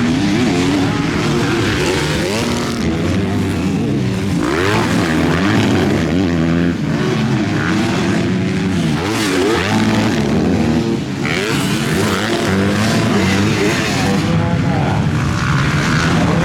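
Several MX2 motocross bikes racing, their engines revving up and falling away again and again, overlapping as the bikes accelerate and shift.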